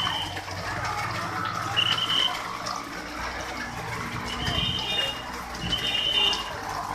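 Monsoon rain and floodwater rushing on a waterlogged street, with a low steady engine hum underneath and four short high-pitched tones.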